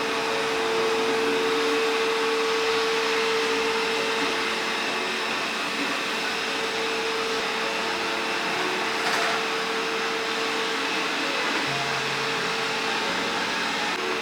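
A household appliance's electric motor running steadily, a rushing noise with a steady whine over it, and a faint click about nine seconds in.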